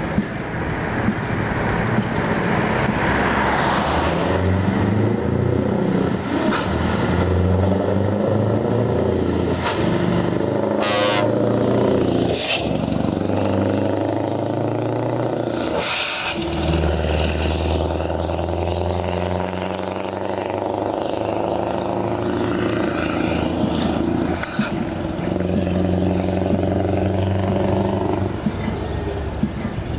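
Scania R500 truck's V8 diesel engine pulling away and accelerating through the gears. The engine note climbs and then drops back several times at the shifts, with brief sharp noises at some of the gear changes.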